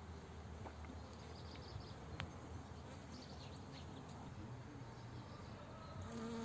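Faint bird chirps over a low, steady outdoor background, with one sharp click partway through. Near the end a bee buzzes briefly close by.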